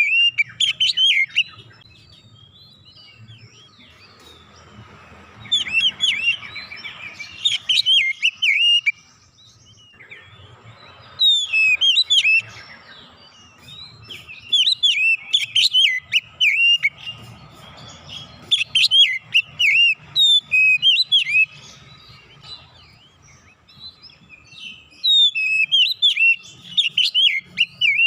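Oriental magpie-robin (kacer) singing in about six bursts of quick, varied chirps and whistles, with short pauses between phrases.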